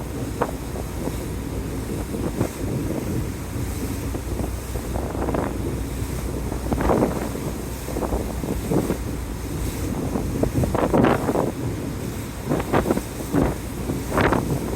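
Wind buffeting the microphone in irregular gusts, over a steady low rumble and the wash of the sea, aboard a car ferry under way.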